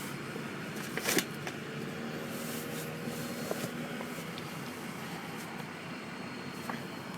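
Steady hum of a vehicle engine running, with one sharp click or knock about a second in and a few fainter clicks later.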